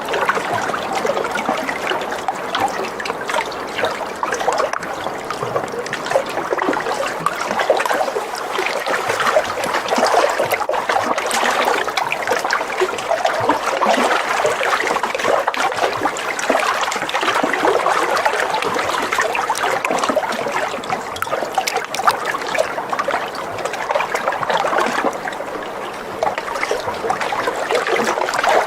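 Water trickling and splashing, a steady busy patter that keeps going without pause.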